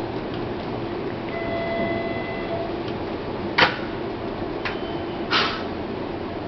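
Hanshin Mukogawa Line train standing at the platform with a steady hum from its equipment, a brief high tone in the first few seconds, and three sharp clicks or knocks in the second half.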